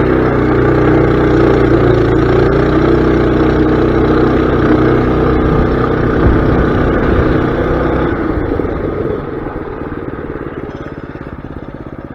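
Mini bike's small engine run at higher throttle for about eight seconds, then dropping back to a steady idle.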